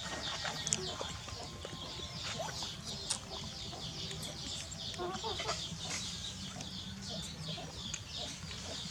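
Many small birds chirping continuously, a dense stream of short, high, falling cheeps, over a steady low hum.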